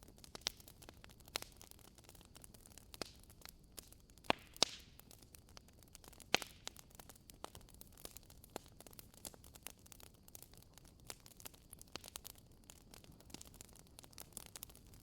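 Wood fire burning in a fireplace, crackling steadily with scattered sharp pops, a few of them louder in the middle.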